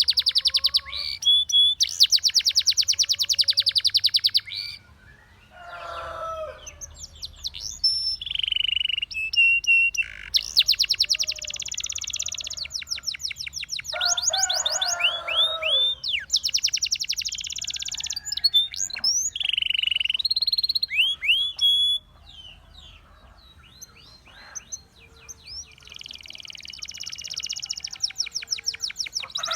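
Russian singing canary in full song: long, very fast high trills of rapidly repeated notes, alternating with whistled glides and a few lower chattering phrases, broken by short pauses.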